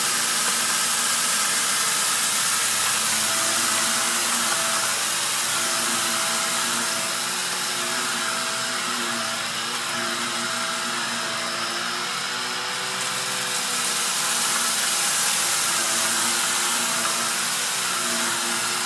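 Upright vacuum cleaner running steadily, its motor note wavering slightly and a little quieter in the middle.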